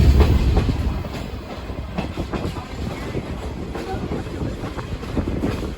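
Train passenger car rolling along the track: a steady low rumble with the clickety-clack of wheels over rail joints. The rumble is loudest in the first second.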